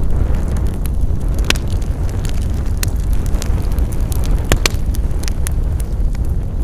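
Wood fire crackling: scattered sharp pops and snaps, a few louder than the rest, over a steady low rumble of the flames.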